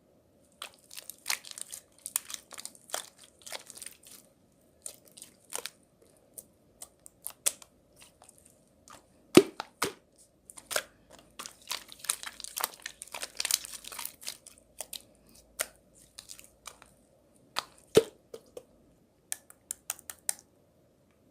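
Paper or plastic being handled close up: irregular crinkling, rustling and small tears broken by sharp taps, two of them the loudest, over a faint steady hum.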